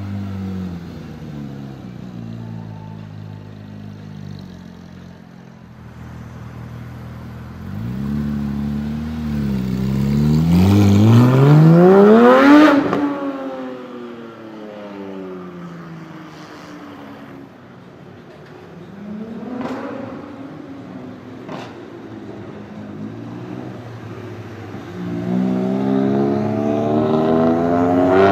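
Porsche 991 GT3's flat-six engine through an iPE Innotech titanium exhaust, running low at first, then climbing hard in revs to a high wail about twelve seconds in that cuts off sharply and falls away. Two sharp cracks follow, and the revs climb again near the end.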